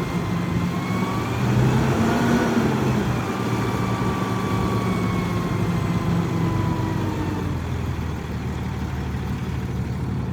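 Diesel engine of a 2012 Peterbilt 337 truck running steadily, its speed picking up briefly about two seconds in and then settling back. A faint whine drifts slowly in pitch over the engine.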